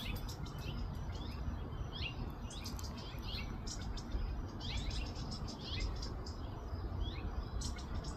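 Small birds chirping: short, high chirps coming in scattered clusters throughout, over a steady low background rumble.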